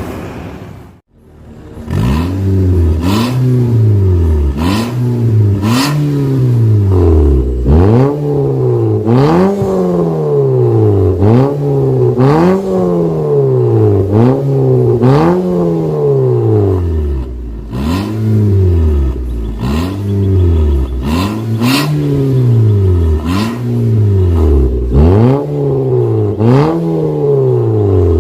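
Toyota Yaris engine revved over and over through a stainless-steel valved cat-back exhaust: quick blips about one a second, each rising and falling in pitch, with a sharp crack near the top of many of them. The sound drops out briefly about a second in before the revving starts.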